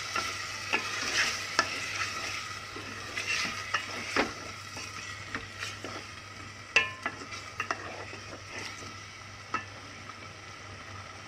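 Chicken pieces cooking in oil and curd in an aluminium pot, sizzling steadily, while a wooden spoon stirs and scrapes against the pot with irregular knocks. The stirring stops near the end, leaving only the sizzle.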